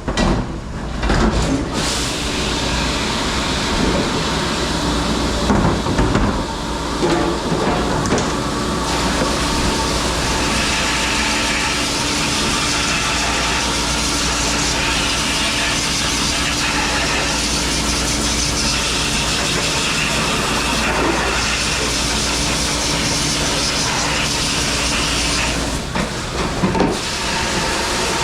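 Commercial dishwashing machine running: a steady hiss of spraying water over a constant motor hum, with dish clatter in the first couple of seconds and again near the end.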